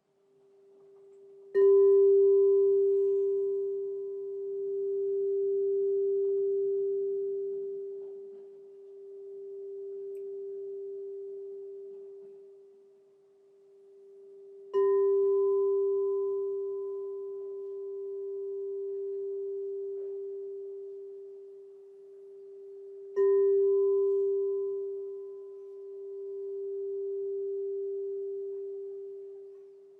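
Crystal singing bowl struck three times, about 1.5, 15 and 23 seconds in. Each strike sets off a long, pure ringing tone with a fainter higher overtone, swelling and fading in slow waves, and each new strike lands while the previous tone is still ringing.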